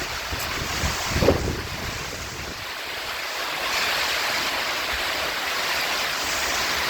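Heavy rain pouring down in a strong windstorm, gusts buffeting the microphone during the first couple of seconds; the rain's hiss gets louder about halfway through.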